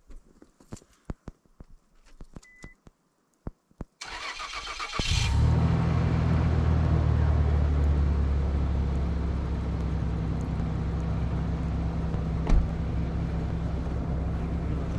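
A few faint clicks, then a vehicle engine cranks and catches about four to five seconds in and settles into a steady idle.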